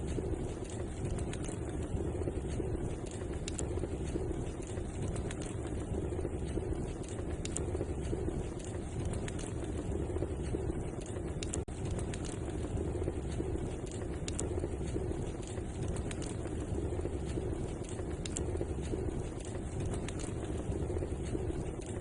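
Wood fire crackling in a fireplace: frequent small sharp pops and snaps over a steady low rumble.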